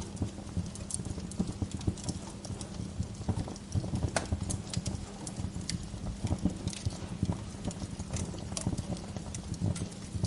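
Wood fire crackling in a fireplace: dense irregular snaps and pops over a steady low rumble of the flames.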